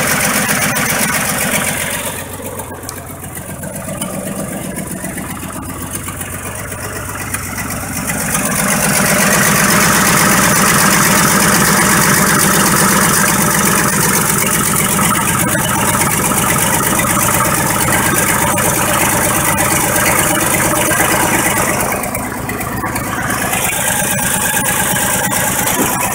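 A 1985 Ford F-150's high-mileage 300 inline-six idling steadily just after a cold start, with the engine knock the owner points out. It gets louder about nine seconds in and stays steady after that.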